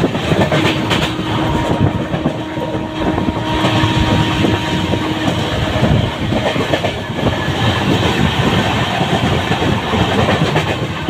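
Moving passenger train heard from inside the coach: a steady rumble of wheels on rails, with clickety-clack over the rail joints. A faint steady tone runs through the first few seconds.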